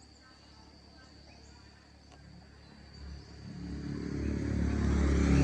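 A motor vehicle's engine rumbling, growing steadily louder from about three seconds in, over a faint steady high tone.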